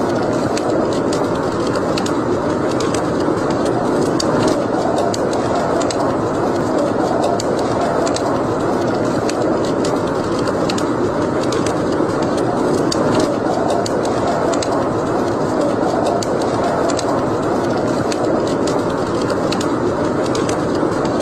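Wood fire burning in a fireplace: a steady rushing hiss with frequent small, sharp crackles and pops at irregular moments.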